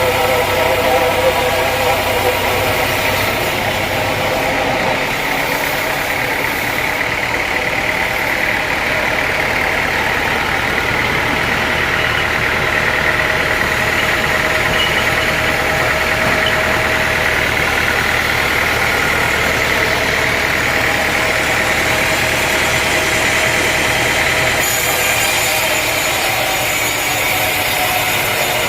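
An engine running steadily at constant speed, a continuous drone with a faint steady whine above it.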